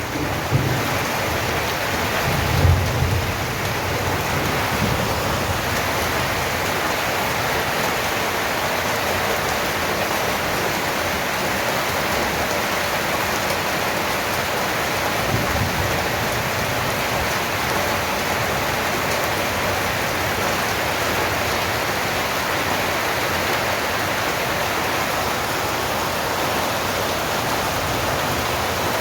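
Heavy rain falling steadily, a dense hiss, with low rumbles of thunder in the first few seconds and once more about midway.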